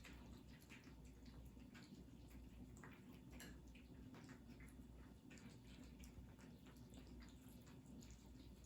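Cats eating: faint, irregular chewing and mouth clicks over a low steady hum.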